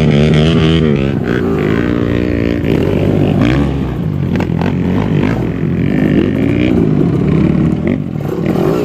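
Trail motorcycle engine revving up and down, its pitch rising and falling again and again as the throttle is worked.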